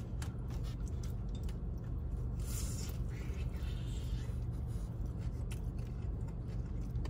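A bite into a crunchy fried chicken tender about two and a half seconds in, then close-up chewing with small crunches and mouth clicks, over a steady low hum in the car.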